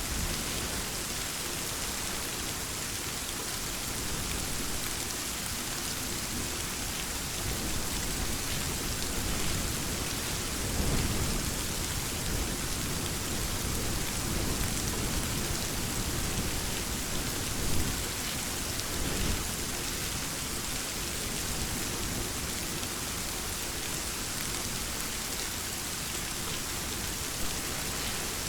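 Steady rain falling, with low rumbles of distant thunder swelling about eleven seconds in and again around eighteen seconds.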